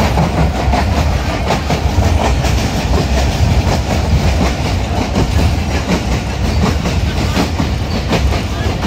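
Moving train running along the track: a steady low rumble with a rapid, uneven clatter of wheels over the rails.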